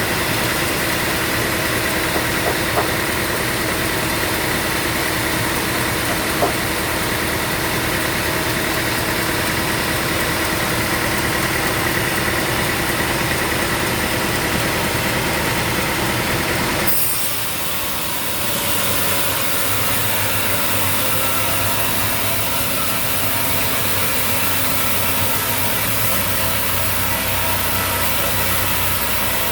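Sawmill machinery running steadily with an engine-like drone. About two-thirds of the way through, the sound changes abruptly, dips briefly, then runs on steadily with a different tone.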